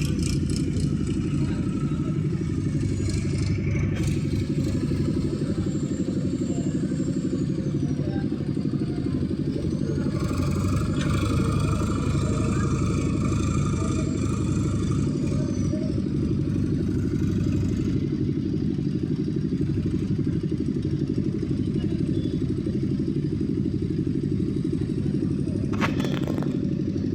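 Heavy diesel engine of a tractor or backhoe-type machine running steadily at a constant speed, with a couple of brief knocks.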